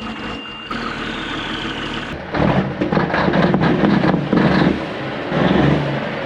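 Snowcat engine running steadily, then surging in louder pulses from about two seconds in.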